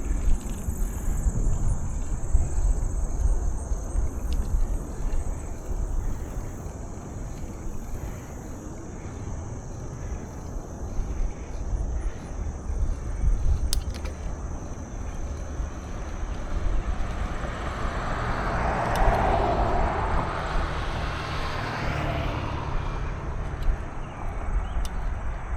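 Wind rumbling on the microphone during a bike ride, with a car passing by on the road: its tyre and engine noise swells about two-thirds of the way in and fades a few seconds later.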